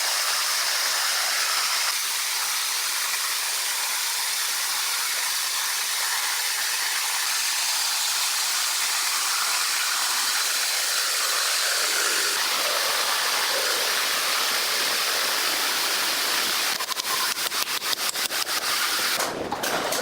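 A steady rushing hiss, with a quick run of sharp clicks near the end.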